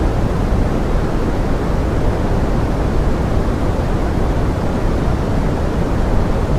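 Pink noise blended with forest rain: a steady, deep hiss that does not change.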